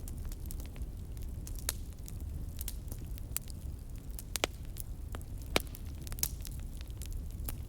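Wood fire burning in a fireplace: a steady low rumble of flames with irregular sharp crackles and pops, two louder pops about four and a half and five and a half seconds in.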